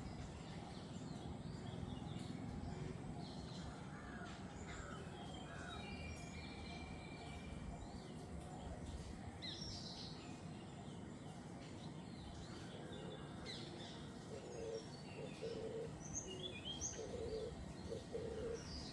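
Jungle birds calling: many short, scattered high chirps and whistles over a steady background hiss, with a lower call repeated several times near the end.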